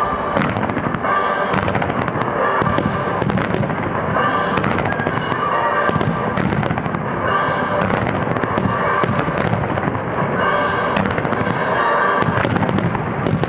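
A dense fireworks barrage: many firework launches and shell bursts going off in quick succession, with music underneath.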